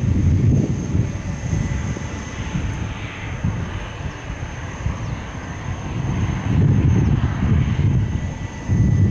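Jet airliner's engines sounding as the plane passes, a low rumble that swells and eases, with a rushing hiss about three seconds in.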